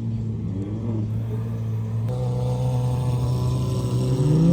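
Car engine running with a steady note, then revving with a rising pitch near the end.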